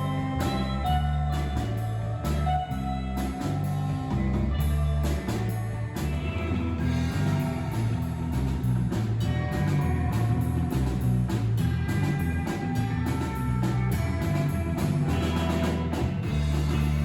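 Surf rock band playing: electric guitar over a driving drum beat and a moving bass line.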